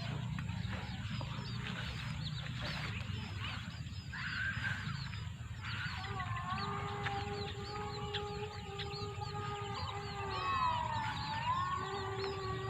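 A flock of Eurasian tree sparrows and munias chirping and chattering busily. About halfway in, a steady pitched hum joins in and dips in pitch briefly near the end.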